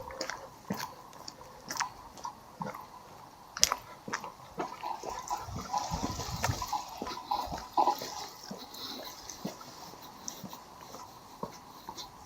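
Footsteps crunching along a seafront path about once a second, with sea water splashing against the shore in a swell around the middle.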